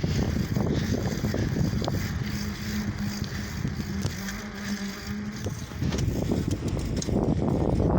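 Wind noise buffeting the phone's microphone during a bicycle ride, with a steady low hum heard for a few seconds in the middle.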